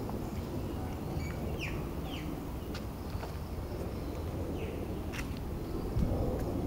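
Birds calling, a few short chirps that fall in pitch, over a steady low outdoor rumble.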